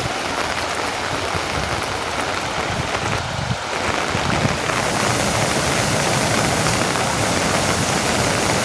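Steady rain falling, an even hiss that thins briefly about three and a half seconds in.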